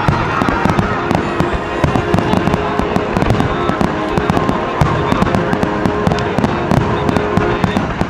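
Fireworks display in a dense barrage: many shells bursting and crackling in rapid succession.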